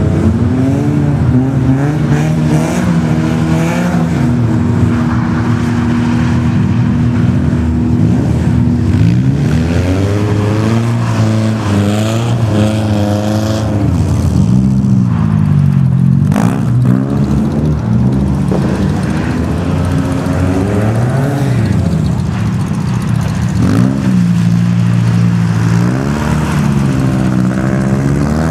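BMW E30 318is rally car's four-cylinder engine revving up and down over and over as it slides through a tight course on ice, the revs flaring and dropping with the throttle. A single sharp click about halfway through.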